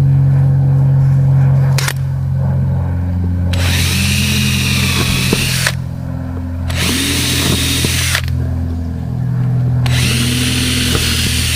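Cordless drill driver running in three bursts of one and a half to two seconds each, its motor whine rising in pitch as it spins up, while working into a boat's fiberglass deck.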